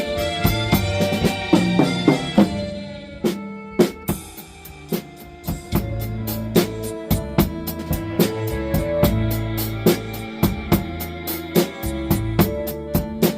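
Drum kit played along to a blues backing track: steady, evenly spaced cymbal strokes over bass drum and snare hits, with sustained bass and chord notes underneath. About three seconds in the cymbals drop out briefly, then the beat resumes.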